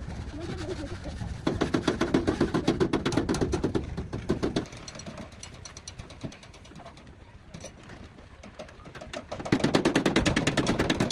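Rapid, even metallic tapping on car body sheet metal, about ten strikes a second, in two bursts. The first runs for about three seconds from a second and a half in; the second starts near the end.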